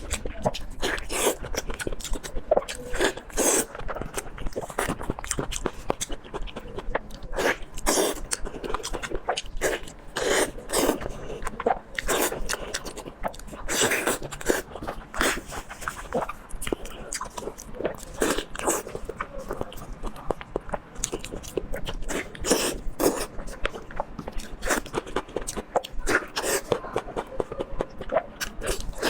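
Close-up chewing and biting of food: a quick, irregular run of crunches and mouth sounds.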